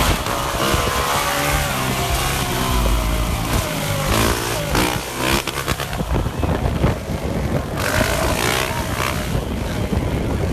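Dirt bike engines running and revving up and down, the pitch rising and falling several times.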